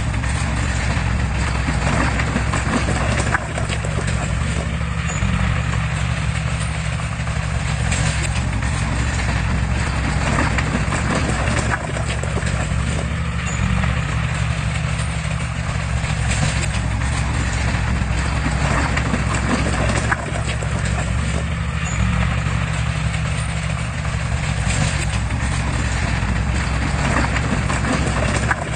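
Heavy earthmoving machine's diesel engine running steadily, with scattered metallic clanks and knocks over it.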